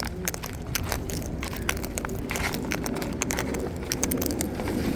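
Rapid, irregular clicks and crackles of a bird's beak cracking and munching seed close to the microphone, over a steady low rumble.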